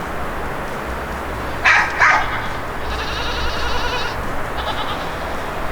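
Farm animal calls: two short sharp calls, then higher wavering calls about three seconds in and again shortly after, over a steady low rumble of wind on the microphone.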